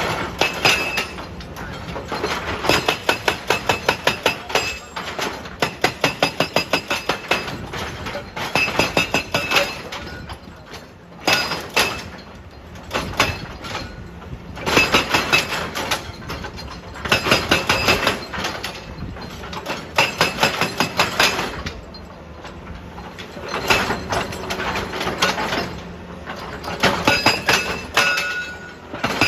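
Excavator-mounted hydraulic breaker hammering rock: bursts of rapid, ringing metal-on-stone blows, each burst lasting one to two seconds, with short pauses between them.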